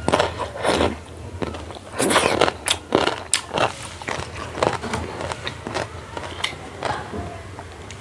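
Close-miked eating: biting and chewing food, with sharp, wet mouth clicks and smacks at irregular intervals, busiest about two to three and a half seconds in.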